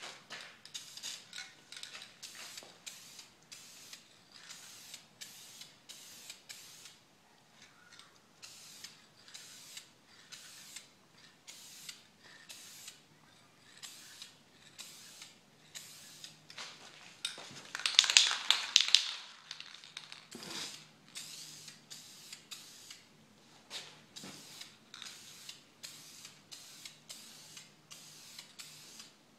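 Aerosol spray paint can hissing in short, regular bursts, about two a second, with one longer, louder spray about 18 seconds in.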